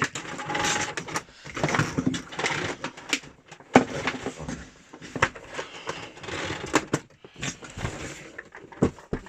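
Plastic parts of a Miele Complete C3 vacuum cleaner being handled and fitted together one-handed: irregular clicks, knocks and rattles, with a few sharper knocks near the middle and near the end.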